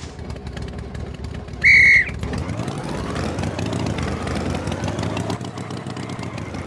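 Cartoon tractor engine running steadily, with one short, loud, high whistle-like toot a little under two seconds in.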